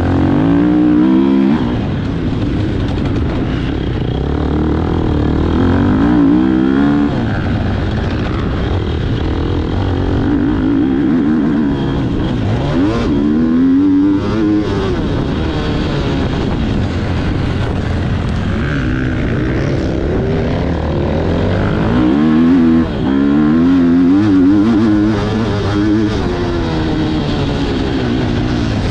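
Motocross motorcycle engines revving, the pitch rising and falling over and over as the throttle opens and closes, over a steady low rumble.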